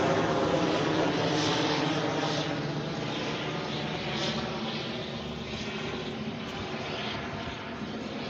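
Sikorsky S-92A helicopter's twin turboshaft engines and rotor running as it moves away, the sound fading steadily.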